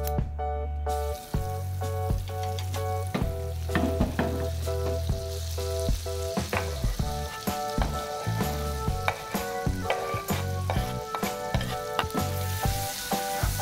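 Butter sizzling as it melts and bubbles in a nonstick frying pan, then sliced onion and garlic frying in the hot butter and being stirred with a wooden spatula. The sizzle starts about a second in and grows stronger near the end, with background music playing throughout.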